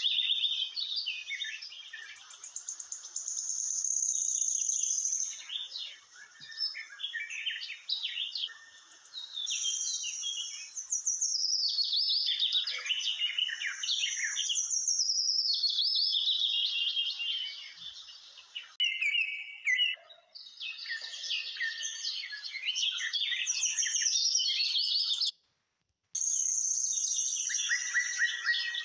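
Birds chirping and twittering continuously, a dense run of high calls with many short falling glides. It cuts out abruptly for under a second near the end.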